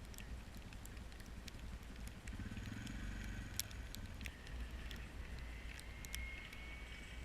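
A car engine running at low revs, swelling briefly about two and a half seconds in, with scattered sharp clicks over a steady low rumble.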